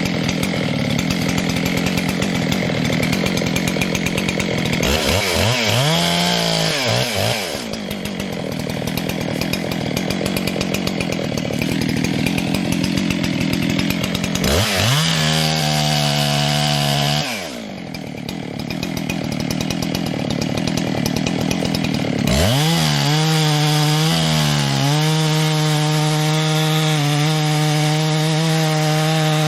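Two-stroke chainsaw cutting into the trunk of a black cherry tree. The engine speed climbs and falls a few times as the bar cuts and is eased off, then holds high and steady through the last several seconds.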